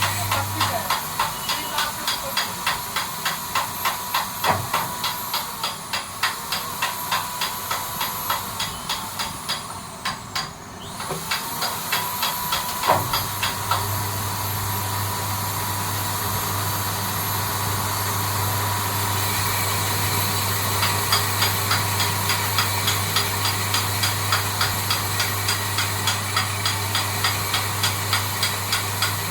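Brake drum being turned on a lathe: a steady machining hiss with a regular ticking about three times a second. The sound dips briefly about ten seconds in, then resumes.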